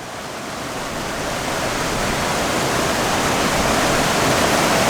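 Rushing water of a stream and waterfall in spate after heavy rain, a steady noise that grows gradually louder.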